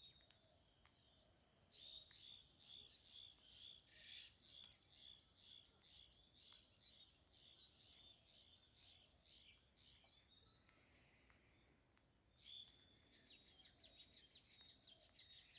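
Faint birdsong: a bird repeating a short high note about twice a second, then a quicker run of high notes near the end.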